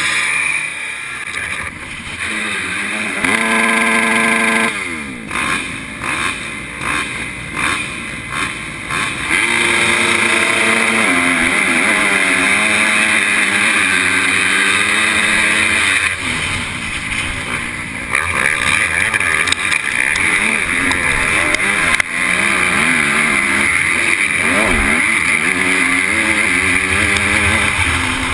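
MX2 motocross bike engine heard from on board: revved and blipped in short bursts, then run hard and continuous, its pitch rising and falling over and over as the throttle opens and closes and the gears change, with a strong hiss of wind over it.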